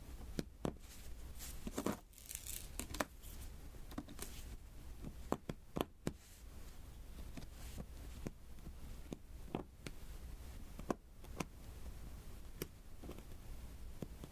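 Diamond-painting beads being tapped one by one onto the sticky adhesive canvas: irregular light taps and clicks, with a few soft sticky peeling sounds.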